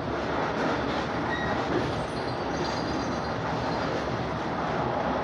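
Long Island Rail Road commuter train running at a steady pace, heard from inside the passenger car, with a few faint high wheel squeals near the middle.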